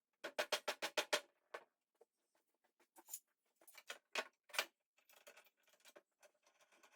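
A quick run of about eight sharp knocks in the first second, then scattered lighter knocks and clicks.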